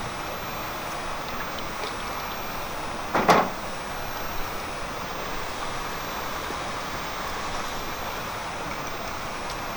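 Steady rushing noise with one short thump about three seconds in.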